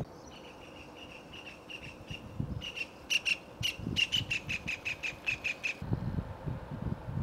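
A bird calling in a rapid, even series of short, high chirps, about four a second, that stops abruptly about six seconds in.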